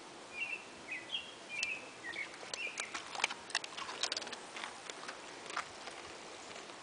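A small bird chirping in quick repeated short phrases during the first two seconds, then a run of sharp crackling clicks for about three seconds: a mastiff crunching a tortilla chip.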